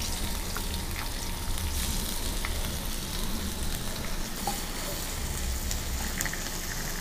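Grated garlic, ginger and hot pepper sizzling steadily in hot avocado oil in a wok, stirred with a wooden spoon near the end.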